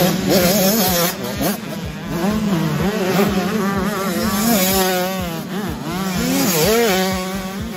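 Several 85cc two-stroke motocross bikes racing, their engines revving up and down rapidly over one another.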